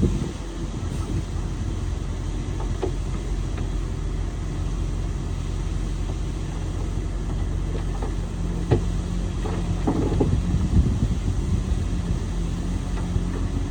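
Bulldozer's diesel engine running steadily with a low rumble, with a few sharp knocks about nine to eleven seconds in.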